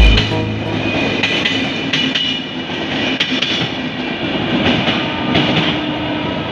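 Passenger train running along the track: steady rolling rumble of the wagons, with a few sharp wheel clacks over rail joints.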